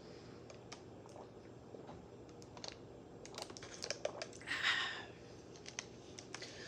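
A person drinking water: small mouth clicks, swallows and light taps, with a short breathy hiss about four and a half seconds in.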